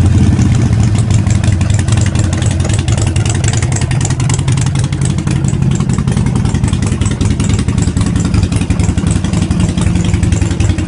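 Harley-Davidson Forty-Eight Sportster's 1200 cc V-twin engine idling steadily.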